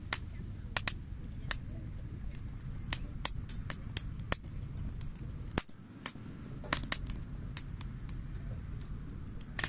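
Wood bonfire crackling: irregular sharp pops and snaps, a dozen or more, over a steady low rumble of burning.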